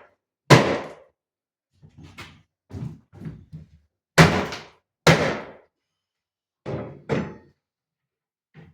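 Heavy thuds and knocks from old furniture being knocked apart: three loud blows, about half a second, four and five seconds in, among several lighter knocks.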